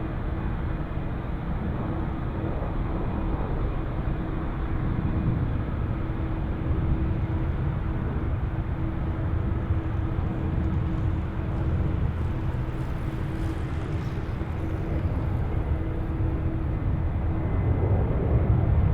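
Jet airliner's engines running steadily on approach to land, a dense rumble with a steady hum running through it.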